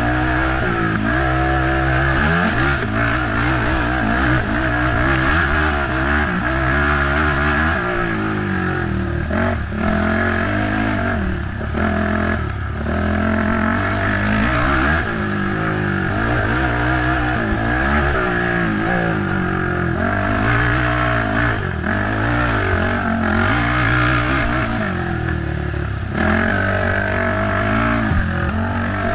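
Race ATV engine under hard load, revving up and falling back every second or two as the throttle is worked and gears change, with occasional knocks and rattles from the machine over rough ground.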